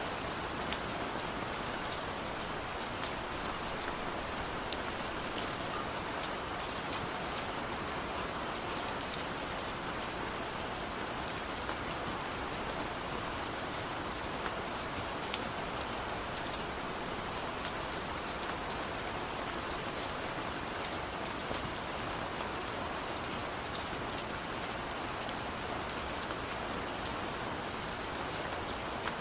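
Steady rainfall, an even hiss with many small, sharp ticks of individual drops hitting surfaces. There is no thunder.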